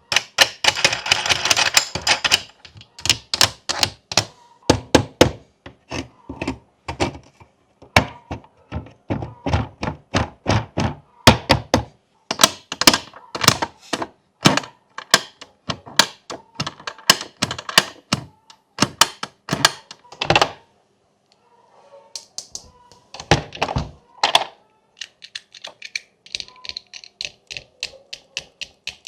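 Hard plastic clicks and clacks of fidget-board buttons and switches being pressed and flicked, many in quick irregular runs. There is a short rustle at the start and a brief pause about three-quarters of the way through.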